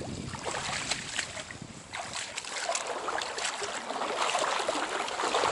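Stream water running, with small splashes and ticks, and some wind on the microphone.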